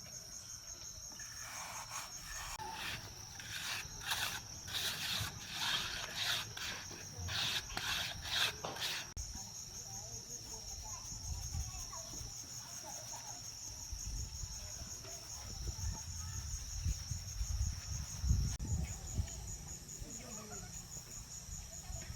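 Insects, most likely crickets, chirring steadily in a fast, even pulse. During the first half a run of about a dozen short, rough scraping strokes sounds over it.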